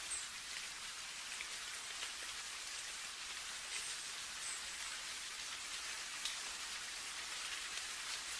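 Steady rain falling, an even hiss with scattered sharper ticks of individual drops landing close by.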